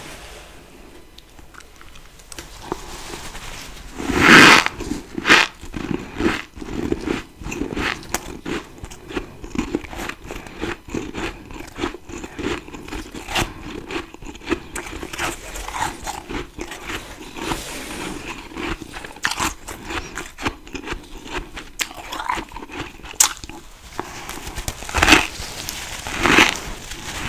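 Fresh freezer frost being bitten and chewed close to the microphone: a loud first bite about four seconds in, then continuous crunchy chewing, with two more loud bites near the end.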